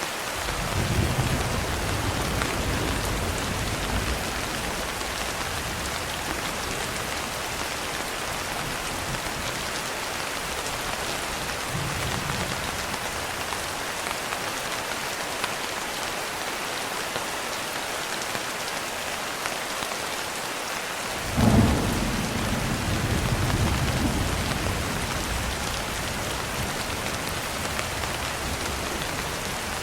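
Steady rain falling, with low rolls of thunder: one shortly after the start, and a louder one about two-thirds of the way through that opens with a sharp crack and rumbles for a few seconds.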